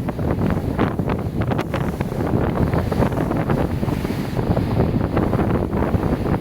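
Wind buffeting the microphone on a ferry, a loud, steady rush with rapid crackling flutter, over the low rumble of the ship and its wash.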